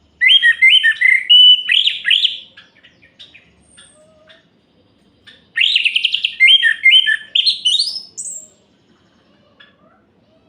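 Orange-headed thrush (anis merah) singing two loud phrases of quick, varied whistled notes about five seconds apart; the second phrase ends in a quick run of rising notes.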